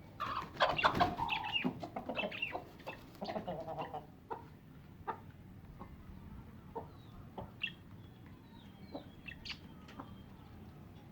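Hens clucking, a busy run of calls for the first four seconds or so, then scattered short calls.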